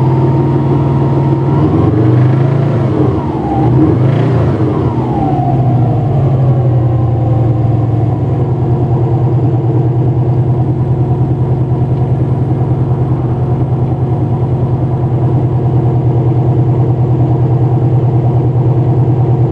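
Subaru EJ205 flat-four engine running cold, with a knock the owner suspects is a worn bearing shell. The revs rise briefly and fall back a few seconds in, then it settles to a steady run with an even, rapid pulsing.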